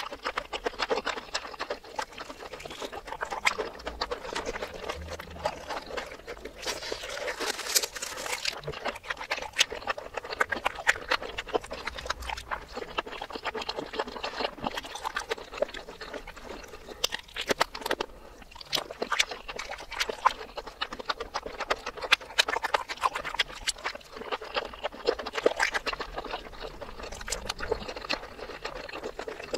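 Close-miked eating sounds played in reverse: crunching and wet chewing of breaded fried mozzarella cheese balls in cheese sauce and a sausage, with dense clicks and mouth smacks throughout.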